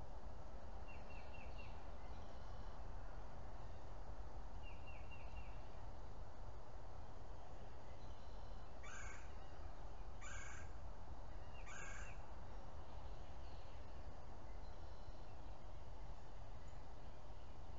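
Birds calling over a steady background hiss. Early on a small bird chirps twice in quick short runs, and midway another bird gives three loud calls about a second and a half apart.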